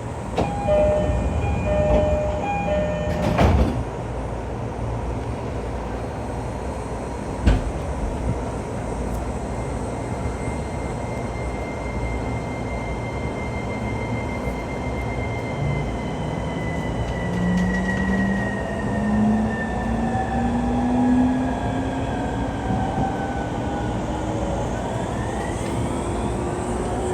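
Inside an E231 series electric train pulling away and accelerating: after a few short beeping tones and a thud in the first seconds, the traction inverter's high whine slides steadily downward in pitch while the motor hum climbs steadily with speed, and a new rising tone starts near the end. This falling inverter sweep is the sound nicknamed a "crashing" inverter, with the motor noise loud.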